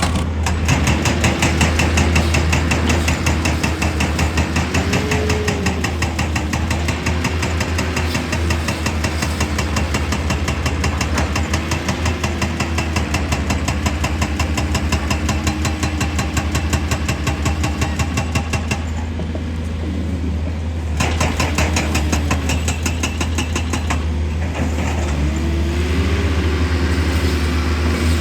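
Heavy diesel machinery engine running hard, with a steady low rumble and a rapid rattle. A pitched tone rises and falls several times as the load changes, and the high rattle drops out briefly about two-thirds of the way through.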